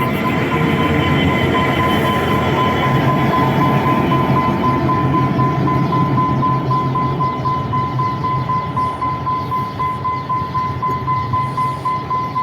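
Diesel train running on the rails: a steady engine hum under a constant high whine, with the sound taking on a regular pulsing rhythm in the latter half.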